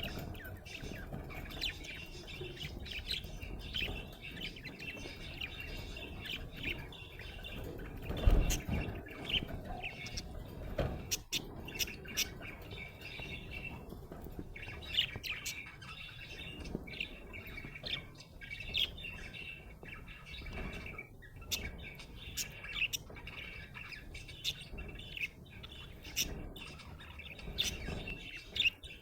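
Budgerigar chirping and warbling in a steady, continuous chatter, with sharp clicks here and there and a brief louder thump about eight seconds in.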